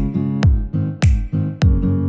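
Upbeat background music: a plucked guitar over a deep kick drum beating steadily, a little under twice a second.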